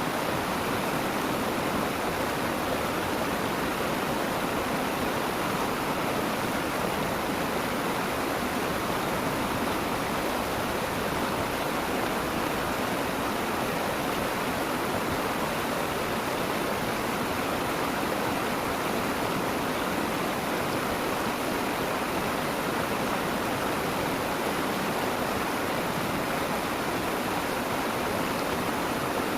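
Steady sound of flowing water from a small stream, even and unchanging throughout.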